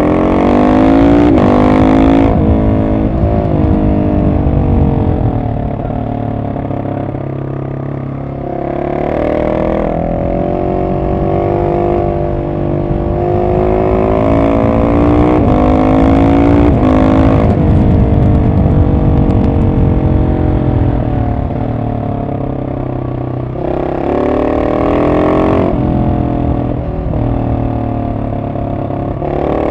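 Husqvarna 701 SM's single-cylinder engine through an Arrow decat exhaust with the dB killer in, ridden hard. It revs up repeatedly under throttle, then falls back as the throttle closes, with several pulls and drops.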